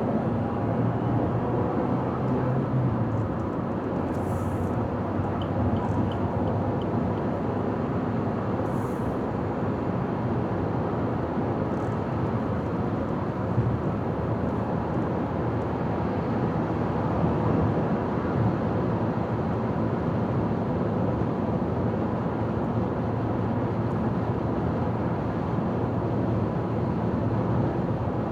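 Car driving at highway speed: a steady rush of tyre and road noise with engine hum.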